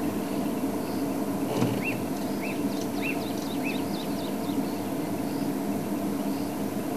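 A bird repeating a short, clear chirp four times, about every 0.6 s, with fainter higher calls mixed in, over a steady low hum.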